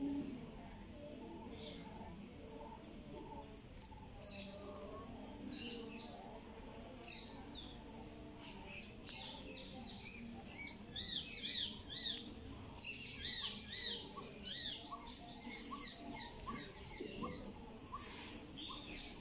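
Birds chirping and calling, with one bird giving a quick run of rapidly repeated high notes for a few seconds past the middle.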